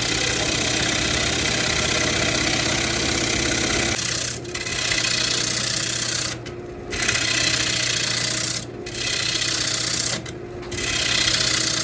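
Lathe gouge cutting a spinning spalted sweetgum blank to true it round, a continuous rough hiss over the steady hum of the lathe. The cut breaks off briefly four times as the tool is lifted from the wood.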